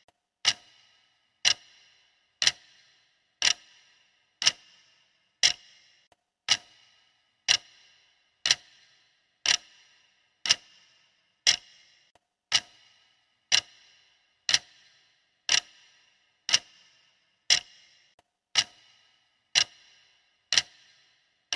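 Clock-style ticking of a workout countdown timer: one sharp tick every second, each tick alike with a short ring after it.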